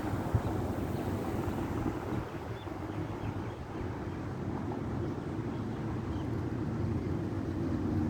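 Low, steady rumble of a boat engine running, with wind buffeting the microphone.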